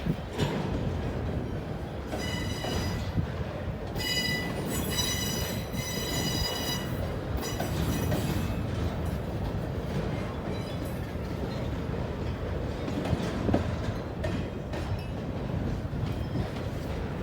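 Freight train rolling by with a steady low rumble of cars on the rails and occasional clacks. A high wheel squeal rings out about two seconds in and again from about four to seven seconds.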